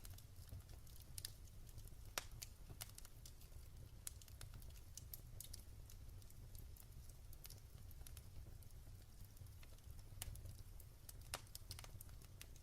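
Wood fire crackling in a fireplace: faint, irregular sharp pops and snaps over a low steady rumble.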